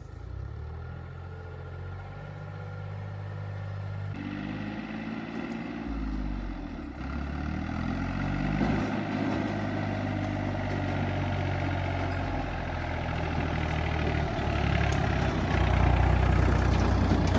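A heavy vehicle's engine running. About four seconds in it works harder, its pitch shifting, and it grows steadily louder.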